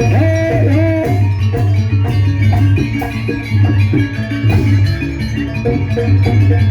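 Live procession music: heavy drums over a steady bass pulse, with ringing metallic tuned percussion playing short melodic notes and a sliding melody line about a second in.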